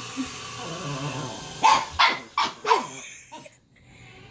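A dog barking: about four sharp barks in quick succession, starting a bit over a second and a half in.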